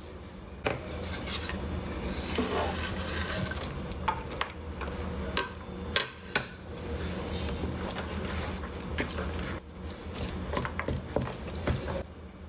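A utensil stirring and scraping in a bowl, with sharp clinks every so often throughout, then stopping shortly before the end.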